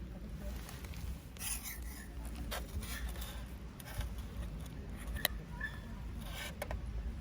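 Light scraping and rubbing with a few sharp clicks, over a steady low rumble.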